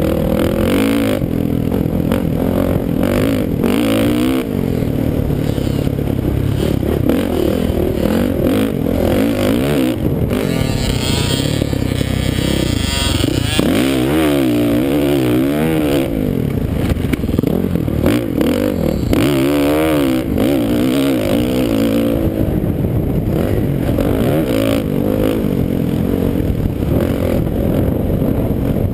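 Motocross dirt bike engines running hard, their pitch rising and falling again and again as the throttle is opened and closed.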